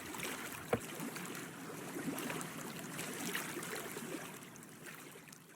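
Water lapping and trickling in small irregular splashes, with a single sharp knock a little under a second in; the sound fades away near the end.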